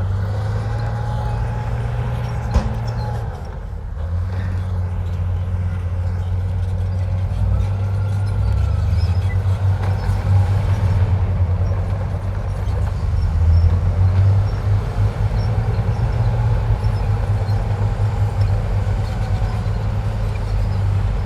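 Heavy diesel engine of a bulldozer working under load: a steady low rumble with faint higher whines that rise and fall. There is one sharp click about two and a half seconds in, and the engine briefly drops a little after three seconds.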